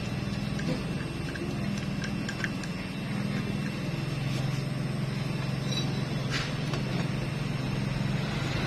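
An engine running steadily with a low drone, with a few light clicks of metal parts being handled.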